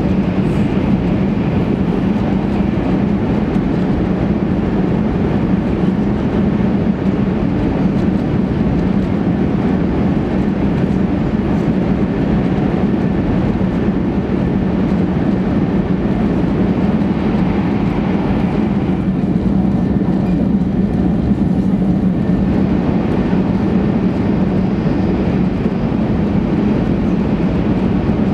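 Cabin noise inside a Series 800 Kyushu Shinkansen carriage running between stations: a steady rumble with a low hum under it. The upper range eases slightly about two-thirds of the way through.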